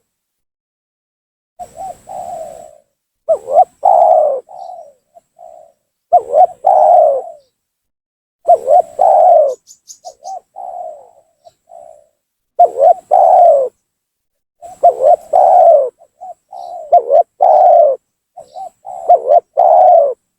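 Spotted dove (tekukur) cooing in vigorous, repeated phrases, about one phrase every two seconds with short silent gaps between. It is the kind of lively call used as a lure to draw in rival wild doves.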